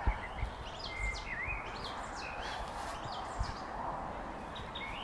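Songbirds chirping with short gliding notes over a steady outdoor background hiss, with a few soft low thumps near the start and once more in the middle.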